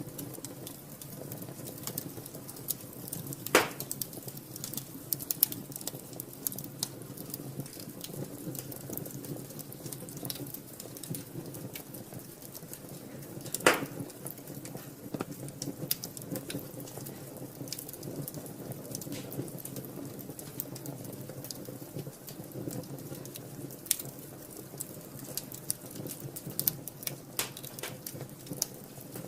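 Wood fire burning in a fireplace: steady crackling with scattered sharp snaps, and two loud pops about three and a half seconds and fourteen seconds in.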